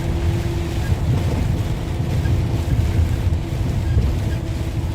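Steady cab noise of a tractor-trailer driving on a rain-wet highway: a low engine and tyre rumble with a constant hum and a wash of wet-road hiss.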